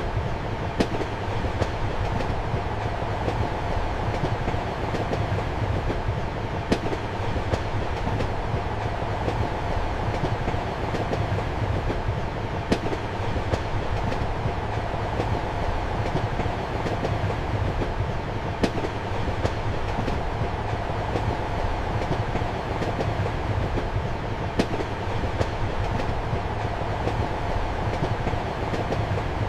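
Train compartment interior: a steady rumble with a low hum and wheel noise, broken by sharp paired clacks of the wheels over rail joints about every six seconds.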